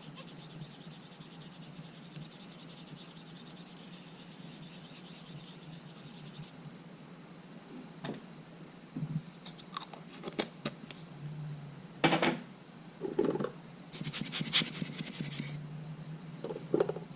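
Small handling noises of camera parts and hand tools on a workbench: scattered clicks and taps, with a scratchy rustle lasting about a second and a half past the middle, over a faint steady hiss.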